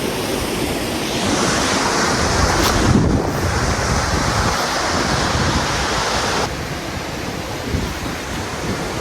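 Steady rush of a waterfall with wind buffeting the microphone. The hiss grows brighter about a second in and drops off suddenly about six and a half seconds in.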